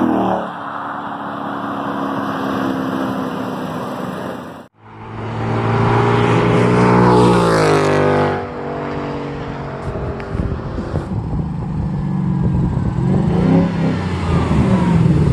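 Exhaust of a 2016 Ford Mustang GT's 5.0 V8 in back-to-back flyby clips. A passing car fades, and a cut about five seconds in leads to a loud full-throttle pull with rising pitch. After that comes a lower, uneven engine sound with short blips of throttle.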